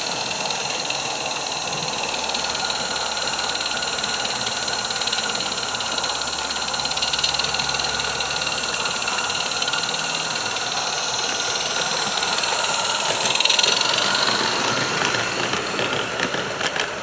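Roundhouse 16mm-scale live-steam model locomotive running on a garden track: a steady hiss of steam with light rattling, rising as it comes closer about 13 seconds in, and a few sharp clicks near the end.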